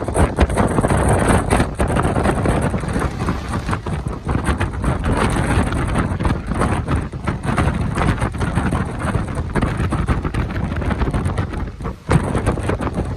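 Passenger train running, with a loud continuous rush of noise and irregular clatter, and wind buffeting the microphone. The noise drops briefly near the end.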